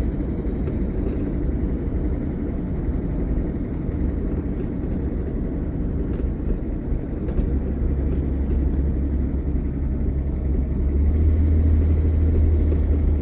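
Engine and road drone of a moving vehicle heard from inside the cab: a steady low hum that grows louder about eleven seconds in, as the engine pulls harder.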